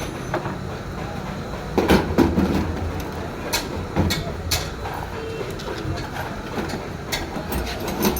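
Irregular sharp metal knocks and clacks, a few close together in the middle, over a steady low hum: hand-tool work on a car alternator during a bearing change.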